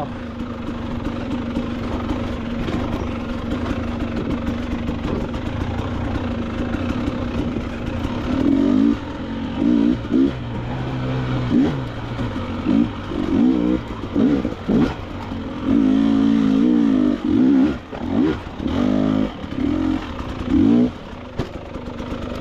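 KTM 300 XCW two-stroke dirt bike engine under way on a trail. It runs steadily at part throttle for the first several seconds, then from about eight seconds in gives repeated short bursts of throttle, the revs rising and falling about once a second.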